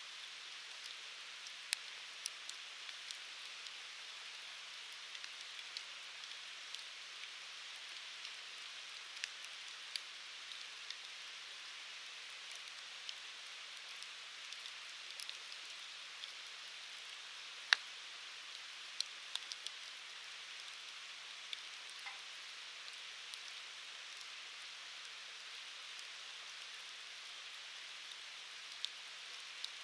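Wood fire burning: a steady soft hiss with scattered sharp crackles and pops, one much louder pop about two-thirds of the way through.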